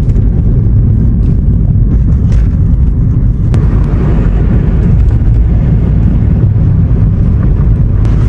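Loud, steady low rumble of wind buffeting the microphone and road noise while travelling in a vehicle.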